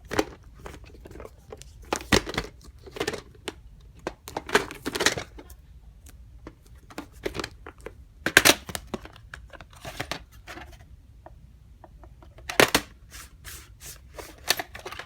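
Plastic VHS cassette and its case being handled: irregular clicks, scrapes and rustles, with a few sharper knocks.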